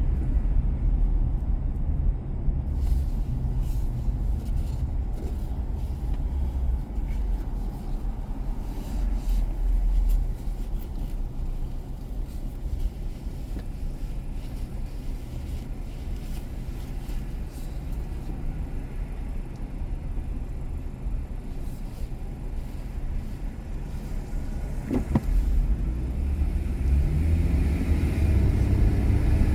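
Car driving through city streets: a steady low rumble of engine and tyre noise, which grows louder near the end as the engine pitch rises with acceleration.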